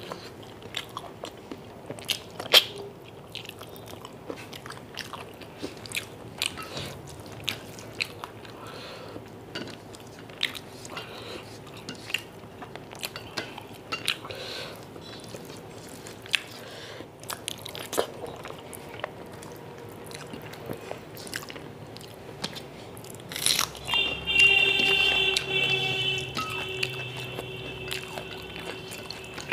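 Close-miked mouth sounds of eating chicken curry and rice by hand: chewing and biting with many quick, sharp clicks and smacks. About 24 seconds in, a steady high tone with several stacked pitches comes in, louder than the eating, and fades toward the end.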